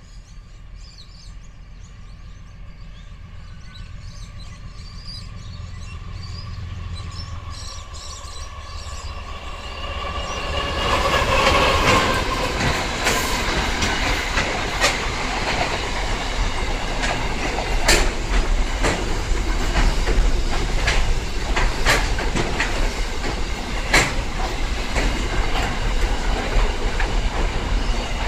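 Diesel freight locomotive hauling a container train approaches with a low engine hum that grows steadily louder, reaching its loudest as it passes about eleven or twelve seconds in. The container wagons then roll past with a continuous rail rumble and regular sharp clicks of wheels over rail joints.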